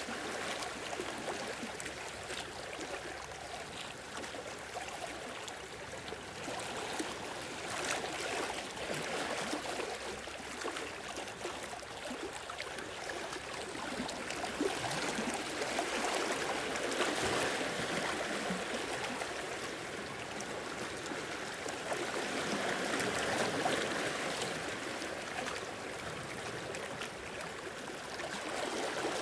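Sea waves washing in and draining back: a steady hiss of water that swells louder every several seconds and then eases.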